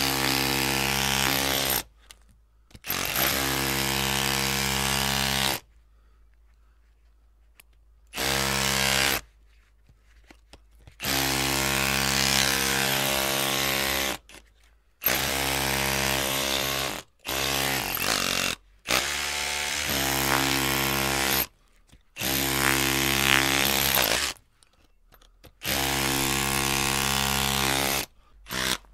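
Electric drill run in repeated bursts of one to three seconds, with short silent pauses between them. Each burst starts and stops abruptly, and the motor holds a steady pitch while it runs.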